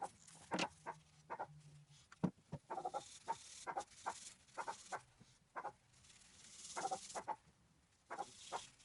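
The dog next door barking over and over, short barks coming in quick runs of several at a time.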